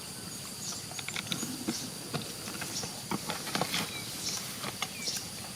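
Irregular rustling with scattered small clicks and taps over a faint steady high hiss.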